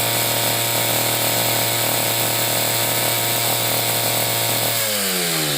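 Electric angle grinder running at full speed, grinding the edge of a brush cutter's metal blade to sharpen it, with a steady hum under a harsh hiss. Near the end it is switched off and its whine falls away as it spins down.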